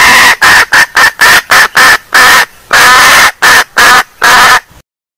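A junglefowl hen calling: a loud run of about ten clucks, mostly short with a couple of longer drawn-out notes, played back as a lure call and cutting off abruptly near the end.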